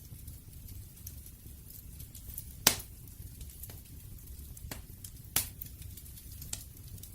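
Wood fire crackling: a steady low rumble of flames with scattered small crackles and two loud sharp pops, one a little before the middle and one about three-quarters through.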